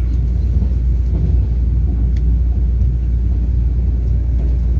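Taiwan Railway EMU3000 electric multiple unit running through a station, heard from inside the passenger cabin: a steady low rumble of the wheels and running gear.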